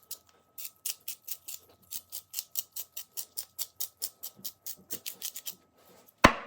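Hand pepper grinder being twisted, a quick run of dry ratcheting clicks at about five a second. Near the end comes one loud knock as the grinder is struck on the table to clear peppercorns clogging it.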